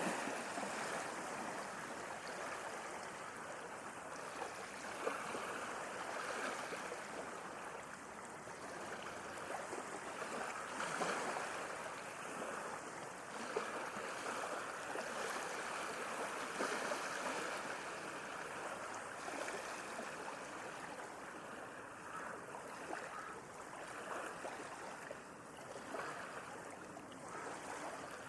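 Small sea waves lapping and washing, a steady rush of water with small splashes now and then.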